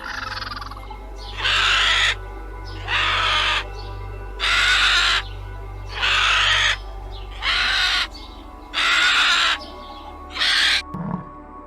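A bird's harsh, rasping call, repeated about eight times at roughly one call every second and a half, over steady background music.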